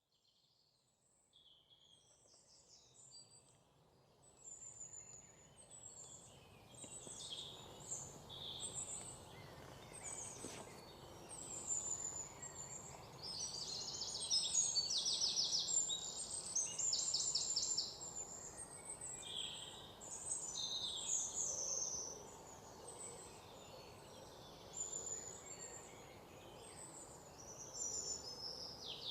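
Birds chirping and singing, many short calls overlapping, with fast rattling trills around the middle, over a faint steady hiss; the sound fades in over the first several seconds.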